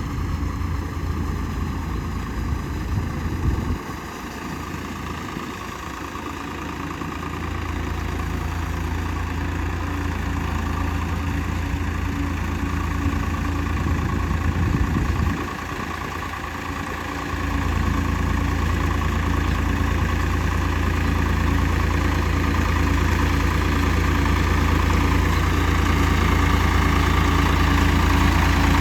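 Tractor diesel engine running steadily with a low rumble; twice its deep note drops away briefly and the level dips before it returns.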